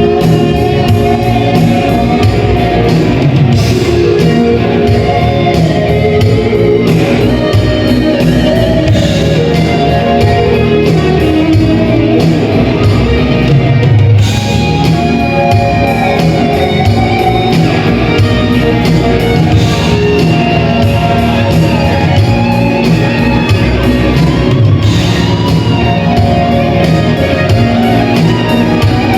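Live rock band playing loudly, led by electric guitar, in a large hall.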